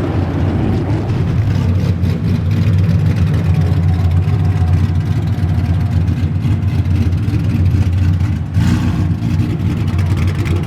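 A car engine running with a loud, deep, steady drone, with a short noisier surge about eight and a half seconds in.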